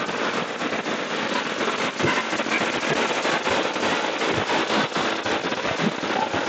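Continuous dense crackling noise full of small pops and low thumps: wind and road noise hitting the microphone of a riding motorcycle.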